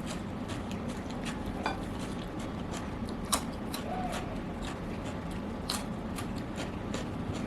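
Close-up eating sounds: chewing with frequent small clicks and smacks, and two sharper clinks of food or utensils on the plate, a little under halfway and about three quarters of the way through.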